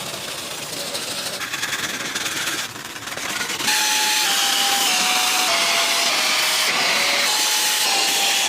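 High-pressure spray hissing steadily, growing louder and stronger about a third of the way in. A faint series of tones steps down in pitch over it.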